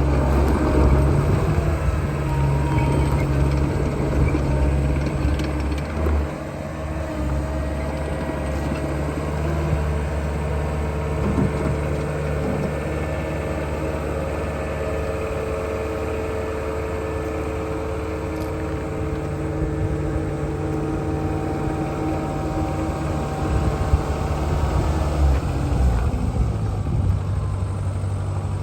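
Caterpillar skid steer's diesel engine running steadily, with brief shifts in engine speed and load about six seconds in and again near the end.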